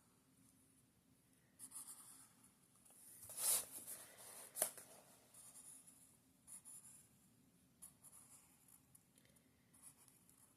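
A pen or pencil scratching on a journal page, drawing small scalloped bumps along an outline. The scratchy strokes come and go, loudest around the middle, with one sharp click about four and a half seconds in.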